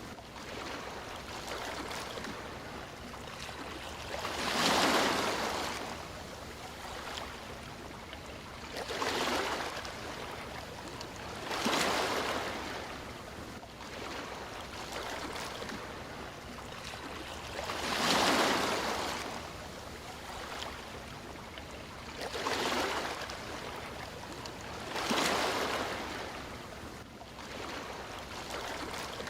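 Sea waves breaking and washing up a shore: six swells that each rise and fall away, a few seconds apart at uneven intervals, over a steady hiss of surf.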